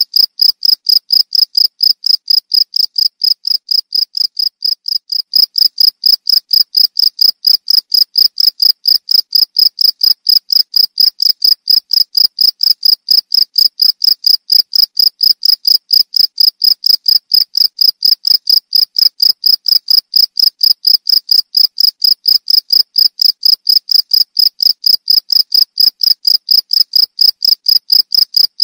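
Field crickets chirping: a loud, high-pitched, evenly spaced train of rapid chirps that keeps the same rhythm throughout.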